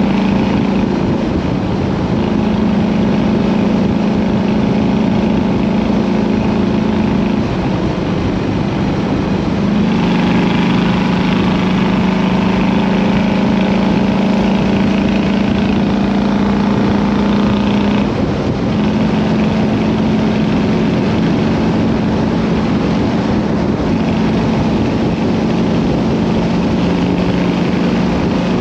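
Harley-Davidson Road King's V-twin engine running under way, with fishtail exhausts, its note stepping down and back up in pitch a few times, over a steady rush of wind and road noise.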